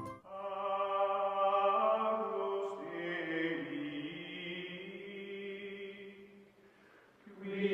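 Closing music of chanted voices holding long, sustained notes. It fades away about seven seconds in, and a new chord swells up just before the end.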